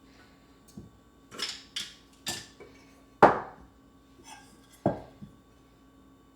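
Hard household objects being handled and set down: three short scrapes, then a sharp knock about three seconds in and a second, softer knock near five seconds.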